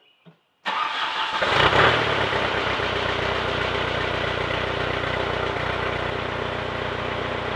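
VW TDI turbodiesel engine starting about a second in, with a brief flare of revs as it catches, then settling into a steady idle through a newly built custom exhaust. The muffler quiets it less than expected, and the exhaust's back section is only tack-welded, which the builder thinks makes it louder than it should be.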